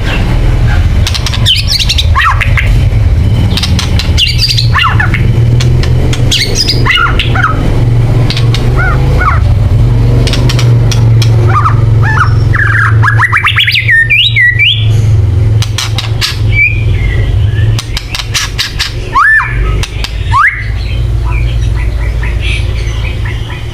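Songbird 'kretekan' calls: harsh squawks, short chirps and rapid rattling clicks, with a fast chattering series about halfway through. A steady low hum runs underneath.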